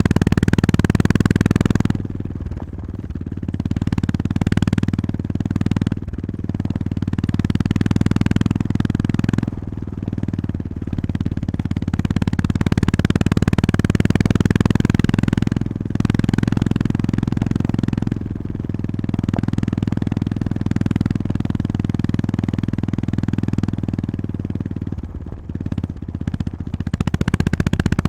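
Honda GB350S motorcycle's air-cooled single-cylinder engine running on the move at a steady low pitch. It dips in level several times, most deeply a little before the end.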